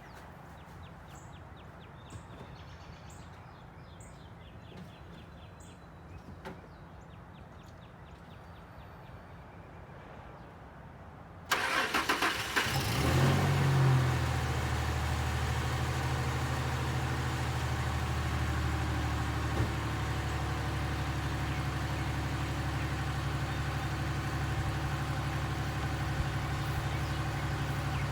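Ford F-150's 4.2-litre V6 cold-started: after a quiet stretch with a few faint clicks, it cranks about eleven seconds in, catches, flares up and settles into a steady idle. The owner finds it running a little rough, almost wanting to cut out, and suspects a misfire on a cylinder or two.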